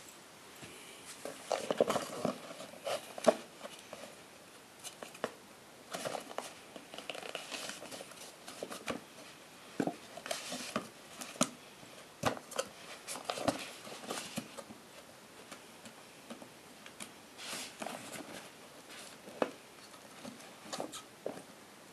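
Hands unpacking a GoPro HERO3 camera kit: irregular clicks, taps and short rustles of plastic and cardboard packaging and parts being handled, busiest in the first few seconds.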